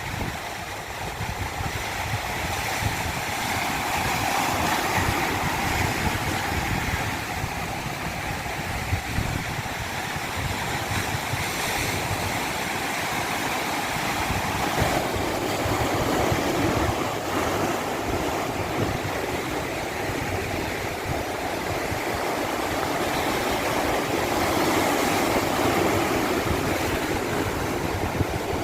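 Continuous rushing water, a steady wash that swells and eases slowly every several seconds.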